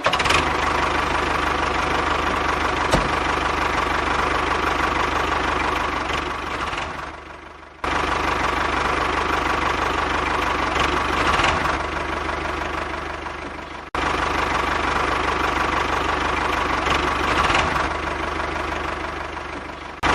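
The motor of a homemade mini tractor running steadily with a held whine. It fades down about six to eight seconds in, then comes back abruptly at full level; there is another sudden jump at about fourteen seconds.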